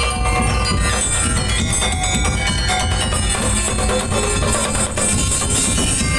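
Madurese daul music: a percussion ensemble of drums and jingling percussion playing loudly on a steady beat.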